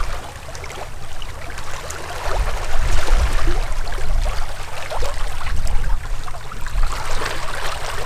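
Water rushing and splashing along a sailboat's hull while under way, over a steady low rumble.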